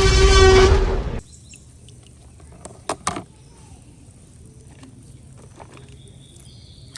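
A loud added sound effect with a held pitch cuts off abruptly about a second in. Then come faint background noise and two sharp clicks a little after the midpoint.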